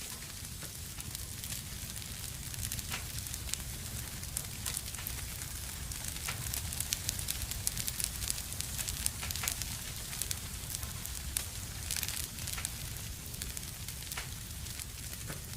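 Wood fire burning in a fireplace, crackling with many small sharp pops that come thickest in the middle, over a steady low rush of the flames.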